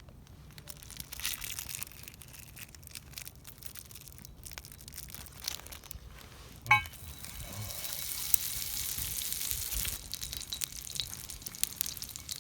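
Food sizzling and crackling in a hot pan, getting louder from about eight seconds in, with one sharp clink shortly before.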